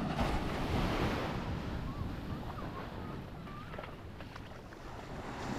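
Sea waves breaking and washing up onto a sandy beach: a rush of surf that swells over the first second and again near the end.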